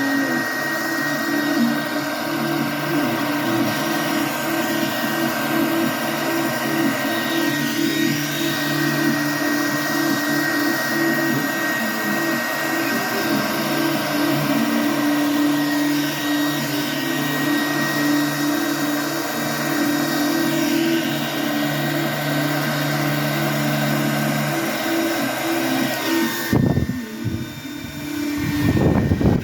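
Handheld hair dryer running on high with the cool setting: a steady motor hum under a rush of air. Near the end its sound drops and wavers for a couple of seconds, then picks up again.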